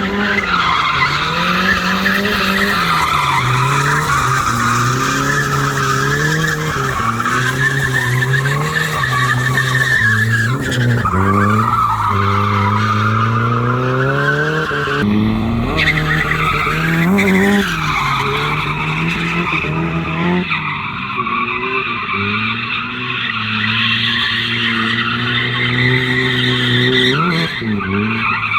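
Drift car sliding, its engine revving up and down again and again under throttle while the tyres squeal continuously.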